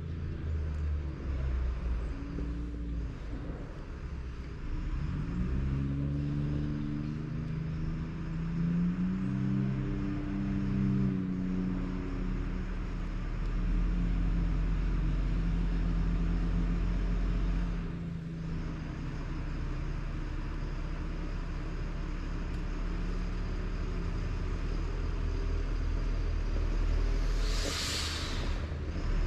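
Large diesel engine running, its pitch rising and falling for several seconds as it is revved, then settling to a steady drone; a short hiss comes near the end.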